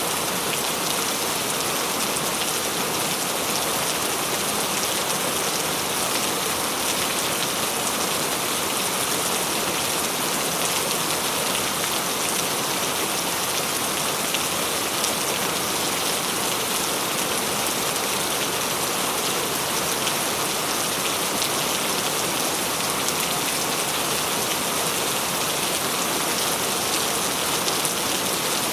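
Steady rain falling, a dense even hiss with many separate drops pattering on a surface.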